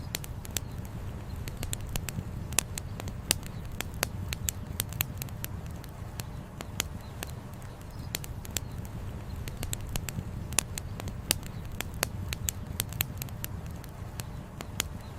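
Campfire wood crackling, with many irregular sharp pops and snaps, over a steady low rush of flowing river water.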